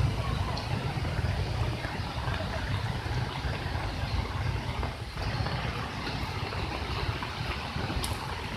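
Steady rush of a waterfall in flood, swollen by heavy rain, with a strong low rumble under the even noise of pouring water.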